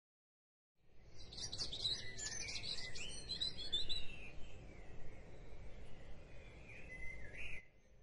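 Songbirds chirping and warbling over a low, steady background rumble. The song starts about a second in, is busiest over the next few seconds, thins out, and stops shortly before the end.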